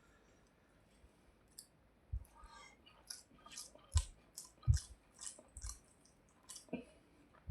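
Close-up mouth sounds of a person eating rice and fish: a run of sharp wet smacks and clicks about two a second, starting after a quiet second and a half, with a few dull thuds among them.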